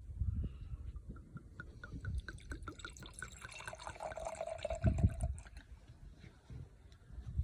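Liquid being poured, with a quick, even run of small glugs, followed by a steady ringing tone.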